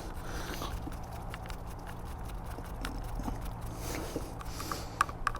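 Light clicks and taps of parts and tools being handled during reassembly of the handlebar controls, with two sharper clicks near the end, over a steady low hum.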